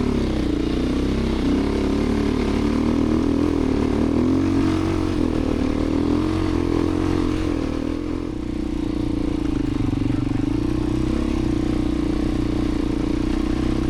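Beta 350 RRS dirt bike's four-stroke single-cylinder engine running under way, its pitch rising and falling with the throttle. It eases off briefly about eight seconds in, then holds a steady note.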